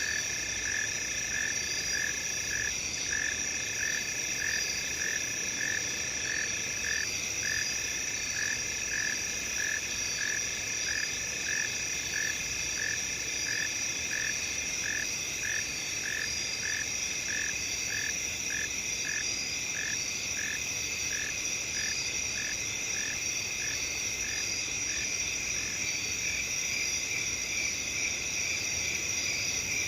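Night field ambience: a steady, high chirring chorus of crickets and other insects, with a short call repeated about twice a second that stops near the end, when a faster trill starts.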